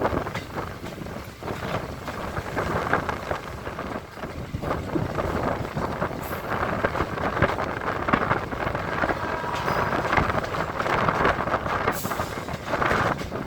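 EMU local train running, heard from on board: steady wheel and rail noise with frequent clattering knocks and wind rushing past the microphone.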